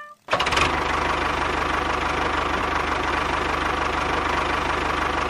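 Tractor engine idling steadily with a fast, even knock, starting abruptly a moment in.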